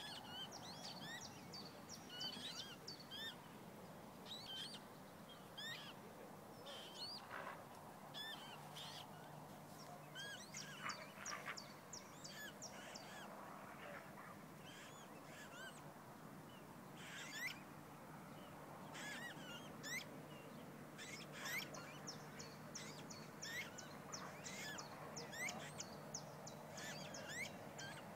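Birds chirping: many short, high calls in quick runs, coming and going throughout.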